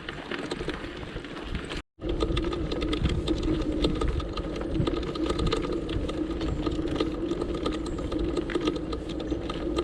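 A vehicle being ridden along a road: a steady mechanical hum with a rapid rattling clatter running through it. It cuts out briefly about two seconds in, then carries on steadily.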